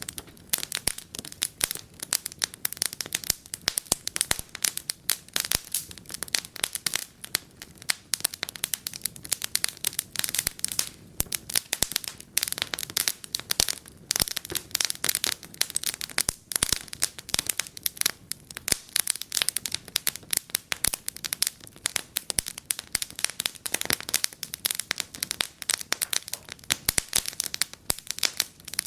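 Wood fire in a fireplace crackling, with a dense, irregular stream of sharp pops and snaps over a faint hiss.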